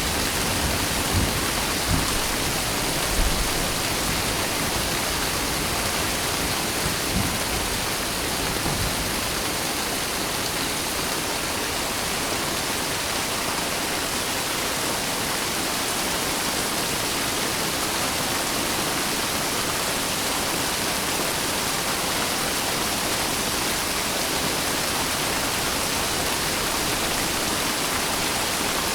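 Steady rain falling as an even hiss, with low rumbles of thunder in the first several seconds that fade out.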